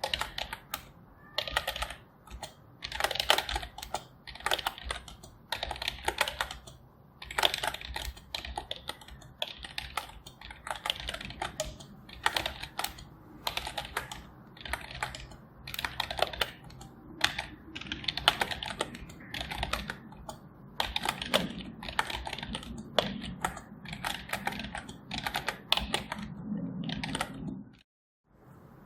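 Typing on a computer keyboard: steady runs of key clicks in uneven bursts with short pauses. The sound cuts out completely for about a second near the end.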